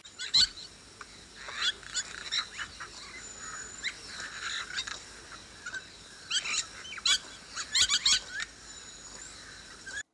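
Short, sharp animal chirps and squeaks in quick clusters, the loudest about half a second in and again around seven to eight seconds in, over a faint steady background; the sound stops abruptly just before the end.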